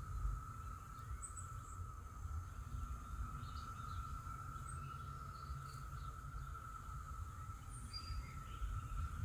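Steady, even drone of a distant periodical cicada chorus, with a few short bird chirps scattered over it and a low background rumble.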